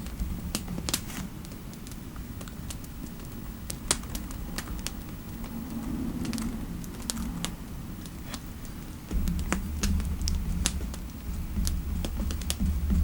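Typing on a computer keyboard: irregular, uneven key clicks. A low steady rumble underneath gets louder about nine seconds in.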